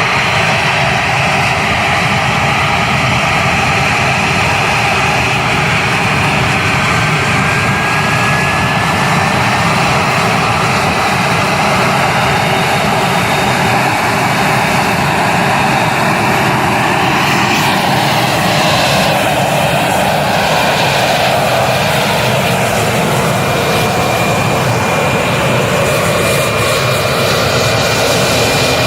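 Russian T-80 tank's 1,250 hp gas turbine engine running with a steady, jet-like whine. The sound shifts about two-thirds of the way through, and a thin high steady tone comes in near the end.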